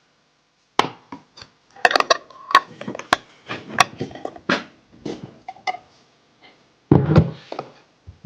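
A run of irregular knocks and clatters, as of hard objects being handled and set down, with a heavier thud about seven seconds in.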